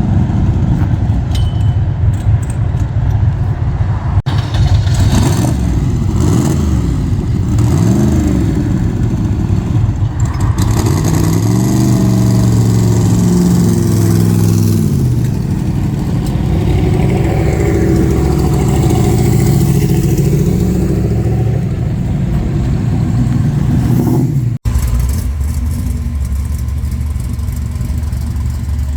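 Car engine revving and accelerating, its pitch rising and falling several times. The sound cuts off abruptly for an instant about four seconds in and again near the 25-second mark.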